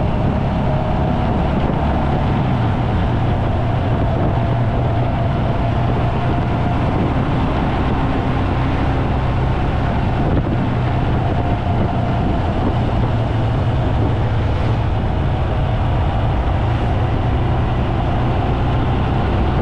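Steady low rumble of a running vehicle, unchanging throughout, with a faint steady hum above it.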